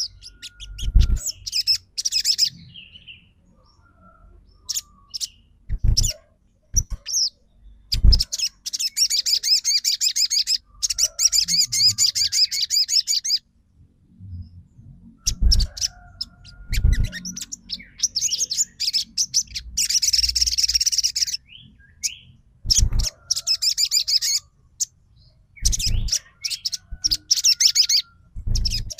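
A sogon songbird singing in bursts of fast, high, chattering trills, some held for several seconds, with short pauses between. Dull thumps come between the bursts, about seven times.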